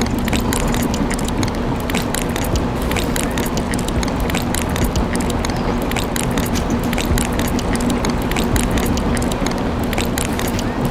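Small electric motor and gears of a miniature DIY model construction machine running: a steady hum with fast, irregular clicking from the gearing.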